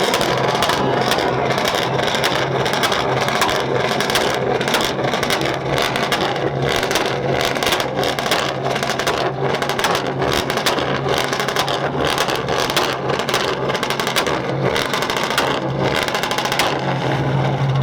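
Loud car engines running hard, with a dense, irregular crackle of sharp pops throughout over a steady low drone.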